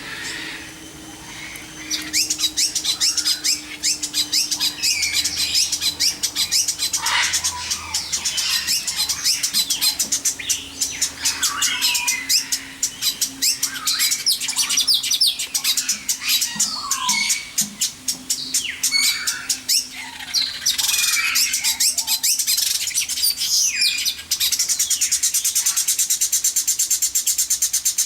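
A mixed chorus of aviary birds chirping and calling, with short squawks and quick swooping calls; near the end it turns into a fast, even trill.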